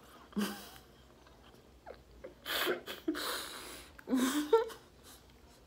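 A person chewing a mouthful of rice, beans and chicken eaten by hand, with a few short noisy mouth sounds and a brief hum about four seconds in.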